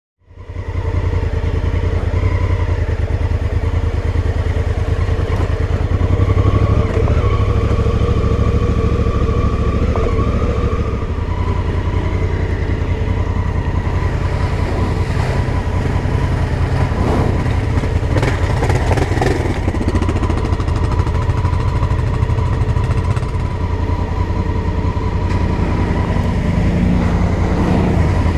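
Honda Africa Twin CRF1000L's parallel-twin engine running steadily, a deep, even low rumble with only small changes in load. A few light clicks and knocks come through around the middle.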